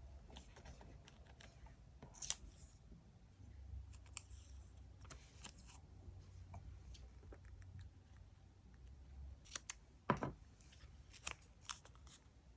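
Quiet paper-craft handling: scissors snipping and paper rustling, with scattered sharp clicks and taps. A cluster of clicks comes about ten seconds in.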